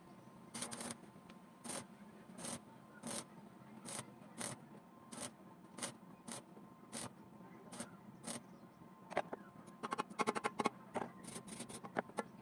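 A run of short scraping strokes, about one and a half a second, then a quick flurry of clicks and scrapes about nine seconds in, like a hand tool worked on metal.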